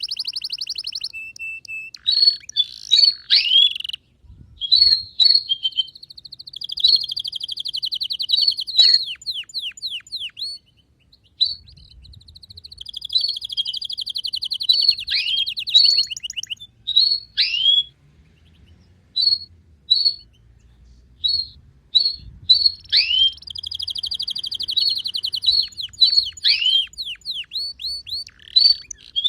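Domestic canary singing: long rapid trills alternating with runs of quick falling notes and separate chirps, broken by short pauses.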